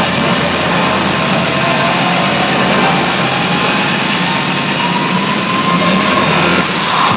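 Motorcycle engines running hard inside a steel globe of death, a loud dense steady racket with a faint pitch that rises and falls.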